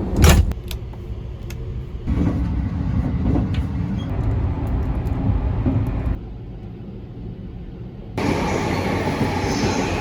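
Train rumbling, heard in several short clips cut together, with a sharp knock about a quarter second in and a few lighter clicks just after.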